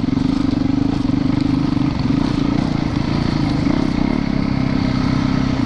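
Yamaha YZ450FX single-cylinder four-stroke dirt bike engine running steadily under way, its pitch holding even with no big revs.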